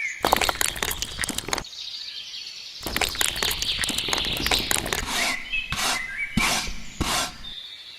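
Small birds chirping outdoors, over repeated clusters of short scraping and clattering noises from handling work.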